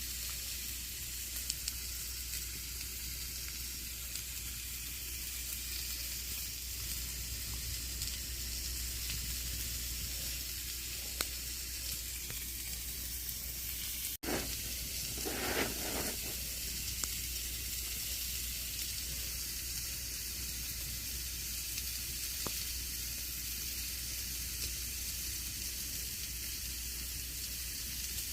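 Campfire burning: a steady hiss with scattered sharp crackles and pops. The sound cuts out for an instant about halfway, followed by a brief louder flare of crackling.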